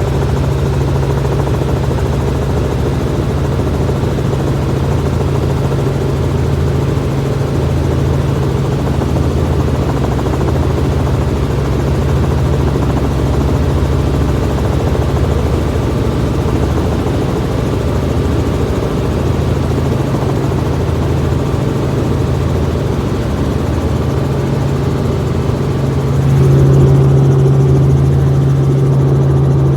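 Helicopter running steadily: a loud low drone with a slow throb underneath. It gets louder about 26 seconds in.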